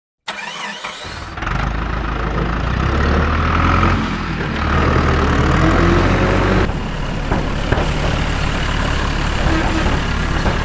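Tractor engine running steadily, starting up just after the beginning and growing louder about a second and a half in.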